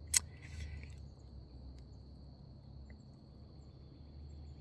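Insects trilling: a faint, steady, high-pitched drone, with a single sharp click just at the start.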